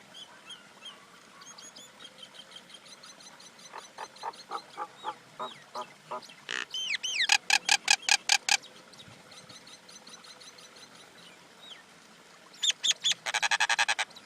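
Common myna calling: three bursts of rapid, repeated notes, about four seconds in, about seven seconds in and near the end, with fainter chirps between them.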